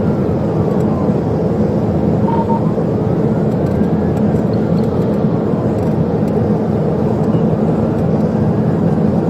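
Police cruiser driving at high speed in a pursuit: steady loud engine, tyre and wind noise inside the car, with the siren's slow wail faintly rising and falling over it. A short beep sounds about two seconds in.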